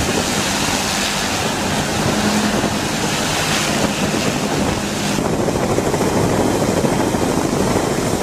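Steady, loud helicopter engine and rotor noise with wind rush. The high hiss drops away suddenly about five seconds in.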